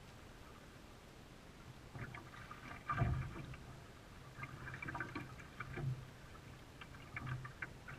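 Canoe paddling, with irregular paddle splashes and knocks on the hull. The loudest is a thump about three seconds in.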